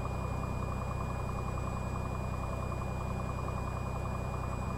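Cessna 182 Skylane's piston engine and propeller idling steadily on the ground while holding short for takeoff, an even drone with a faint steady high whine over it.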